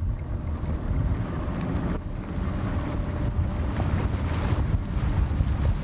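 Wind buffeting the microphone on a moving motorboat, with the boat's engine running as a steady low rumble underneath.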